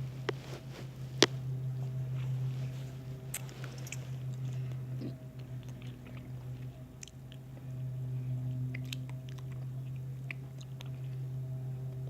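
Scattered small clicks and crackles over a steady low hum, with one sharper click about a second in.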